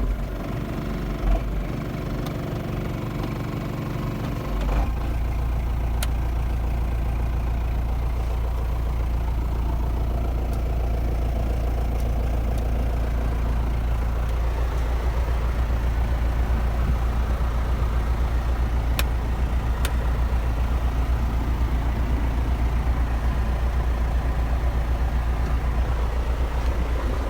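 John Deere 6410 tractor's four-cylinder diesel engine running at idle just after being started. About five seconds in, the sound settles into a steady, deeper hum.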